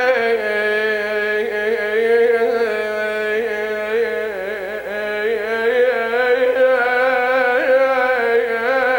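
A man chanting an Arabic funeral lament (naʿi), holding one long wordless, ornamented note that wavers up and down. The note trails off at the very end.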